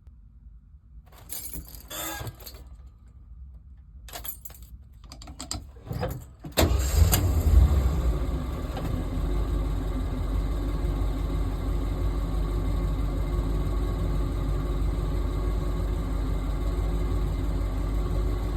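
A few clicks and key rattles, then the 1977 Jeep CJ7's engine starts from cold about six and a half seconds in, flares up briefly and settles into a steady idle.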